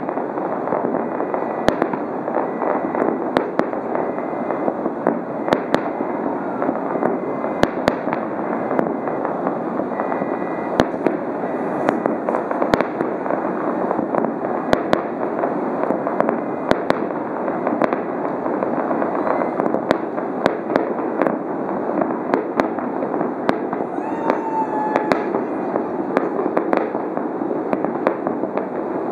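Fireworks show going off: a dense stream of sharp bangs at irregular intervals, several a second at times, over a steady background noise.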